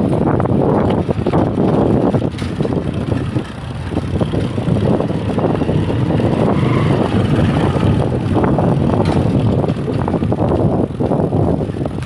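Continuous rush of wind and road noise picked up while riding a bicycle, with a choppy low rumble that dips briefly a few seconds in.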